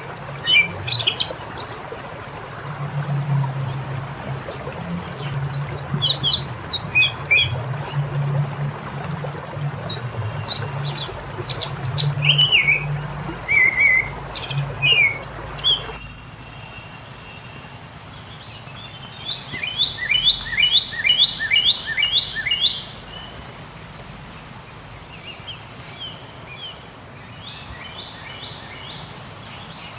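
Several birds singing, with varied quick chirps and whistles over a low steady hum. About halfway through the background drops abruptly and one bird sings runs of quick, evenly repeated descending notes, twice.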